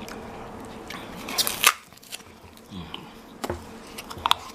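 Styrofoam being bitten and chewed: a few sharp crunches and squeaky crackles, the loudest cluster about a second and a half in and a few more near the end.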